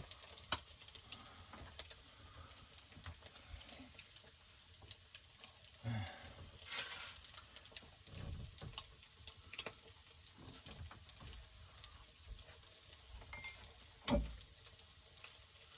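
Breakfast frying in a pan on a stove: a steady sizzle, with frequent clicks of a utensil against the pan and a few louder knocks.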